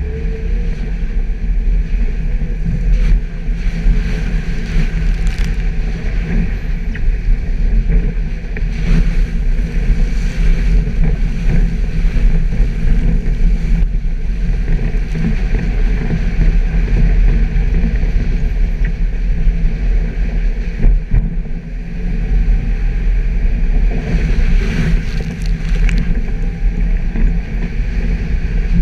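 Suzuki Jimny driving off-road: a steady, loud engine and drivetrain rumble, with occasional knocks and rattles as it goes over rough ground.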